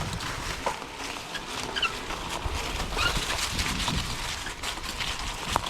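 Electric dirt bikes riding over a rough, wet trail: a steady rumble of tyres over the ground with many small clicks and knocks.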